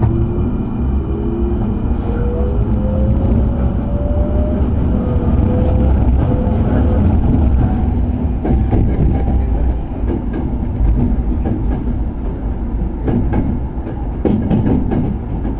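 Electric train heard from inside the passenger car as it picks up speed: the motor whine rises in pitch over the first seven seconds or so above a steady running rumble, and sharp clicks from the wheels and track come through in the second half.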